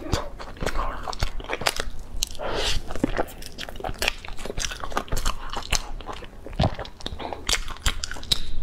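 A person biting and chewing a crisp, flaky layered egg pastry close to a clip-on microphone: a quick run of small crunches and crackles.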